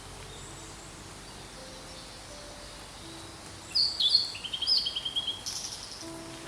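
Blue-and-white flycatcher singing one phrase about four seconds in: a few clear whistled notes falling in pitch, then a quick trill, ending in a rasping note.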